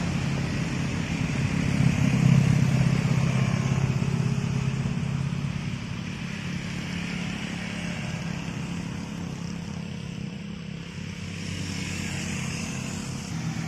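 Truck engine running under load on a climb, loudest about two seconds in and then easing off as it moves away, with another engine growing louder near the end.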